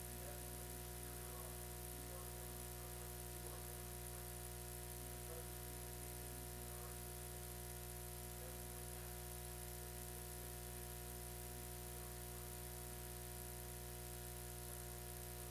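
Steady electrical hum and buzz with faint music underneath.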